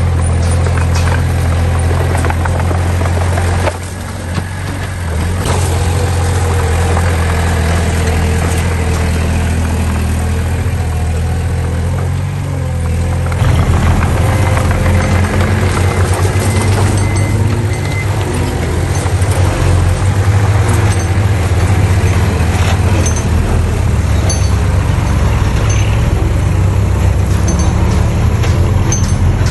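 Heavy diesel machinery, a dump truck and small bulldozer, running steadily at work. The engine note turns louder and rougher about halfway through, as under heavier load.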